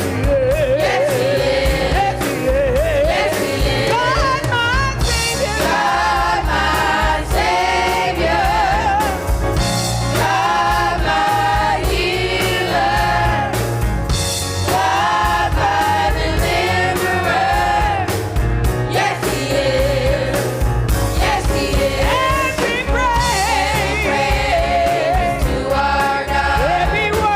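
Gospel choir singing with a live band: several voices with vibrato over bass and drums.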